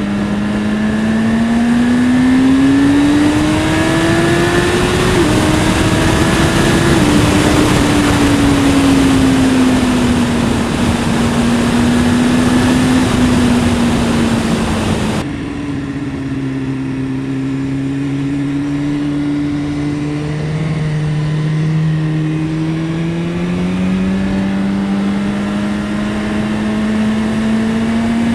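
BMW S1000RR's inline-four engine under way with heavy wind rush: the engine note rises over the first few seconds, then eases and falls. About halfway through the wind rush cuts away suddenly and the engine runs at a lower pitch, slowly rising again.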